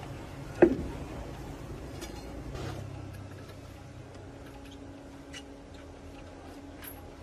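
A sharp metallic clank under a second in, ringing briefly, then scattered light ticks and clinks of tools on metal.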